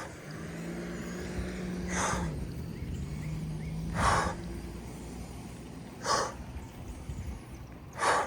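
Hard, forceful breaths from a cyclist straining up a steep hill, one loud exhale about every two seconds. A steady low engine-like hum runs under the first half.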